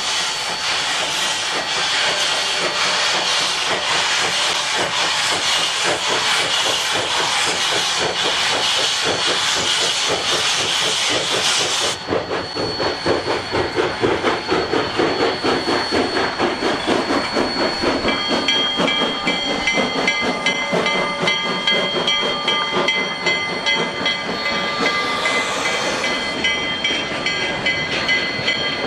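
Steam locomotive of an arriving passenger train: a steady hiss of steam for about twelve seconds, then an abrupt change to a slow rhythmic pulsing of the train moving, with steady high ringing tones joining about halfway through.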